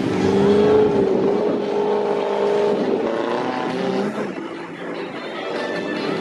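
Lifted 4x4 mud truck's engine revving hard as it drives through a mud hole, its pitch rising and falling; the sound eases about four and a half seconds in, then builds again.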